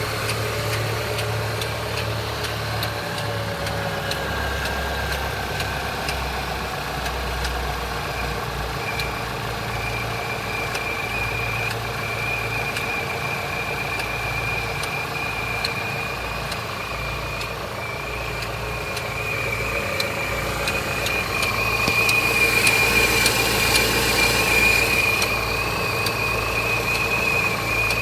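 Opel Z20NET 2.0 turbo four-cylinder petrol engine idling, with an irregular light ticking from a failing secondary timing chain tensioner. A steady high whine runs over it, louder from about 22 seconds in and easing near the end.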